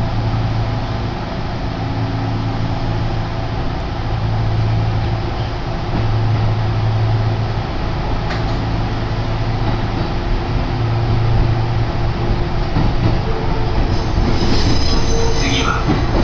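Kintetsu electric train running between stations, heard inside the passenger car: a steady rumble of wheels on rail under a low drone. A high wheel squeal comes in near the end.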